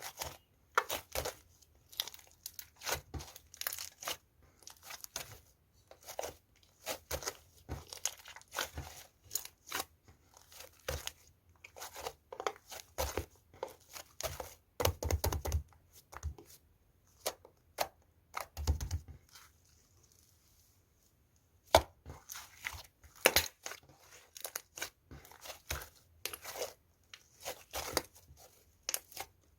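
Pink slime with clay mixed in being kneaded, stretched and pressed by hand, giving a string of irregular sticky pops and crackles. The sounds pause for about two seconds around two-thirds of the way through.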